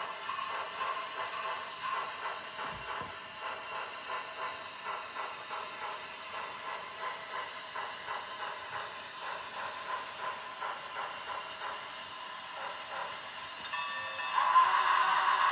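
Model train running, with a steady rhythmic beat of about three strokes a second. About 14 seconds in, a louder, steady pitched sound takes over.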